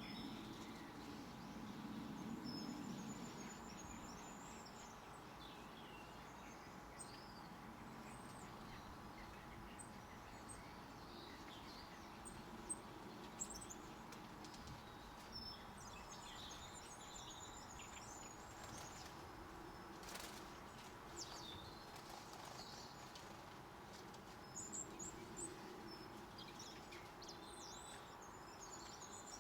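Small garden birds chirping and calling on and off, faint, with short high twitters and trills, over a low steady background hum. A couple of sharp ticks sound about halfway through.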